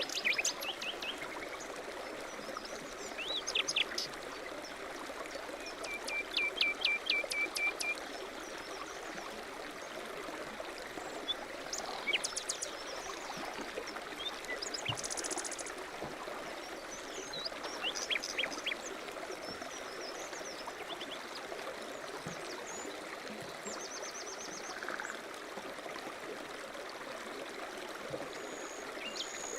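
A stream running steadily, with small birds calling over it: scattered short chirps, and a quick run of repeated notes about six to eight seconds in.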